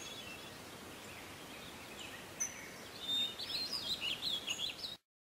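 Birds chirping over a faint outdoor hiss: a single call about two seconds in, then a run of quick, high chirps from about three seconds. The sound cuts off abruptly near the end.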